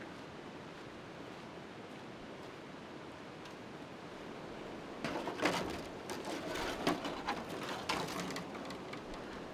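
Steady rain hiss. From about five seconds in, a cluster of knocks and clicks comes through it for roughly three seconds.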